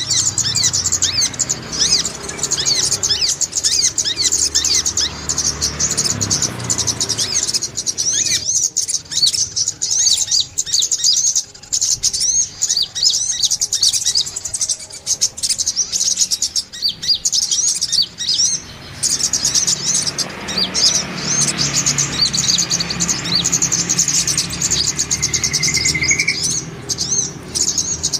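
Brown-throated sunbirds chirping rapidly, a dense run of high, quick notes that thins out for about ten seconds in the middle, with a short rising whistle near the end.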